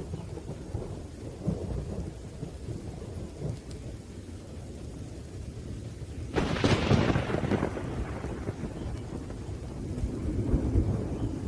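Thunderstorm with rain and a continuous low thunder rumble. A sharp thunderclap breaks in about six seconds in and fades over a second or two, and a smaller swell of rumbling follows near the end.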